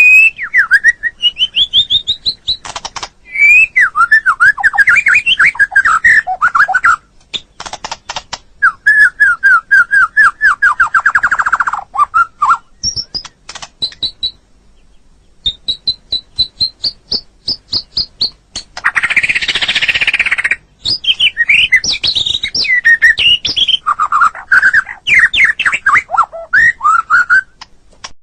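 White-rumped shama (murai batu) singing loudly: a varied run of whistled phrases that glide up and down, fast trills and sharp clicking notes, with a brief pause near the middle and a harsh, rasping note about two-thirds of the way through.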